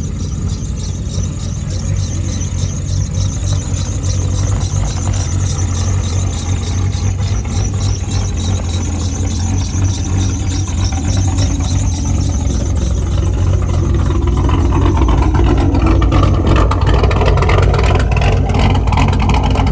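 A vehicle engine idling steadily, with a louder engine sound building in the last few seconds.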